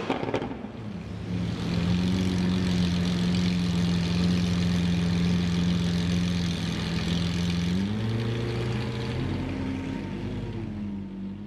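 Lamborghini Aventador's V12 running with a steady drone, rising in pitch about eight seconds in, with a short rise and fall near the end as it fades out.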